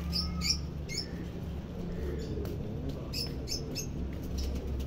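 Birds chirping and squeaking in short high calls, scattered through, over a steady low hum.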